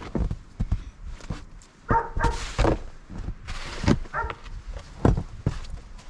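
Snow shovel scraping through and thumping into heavy snow in several strokes, with a dog barking a few short times in between.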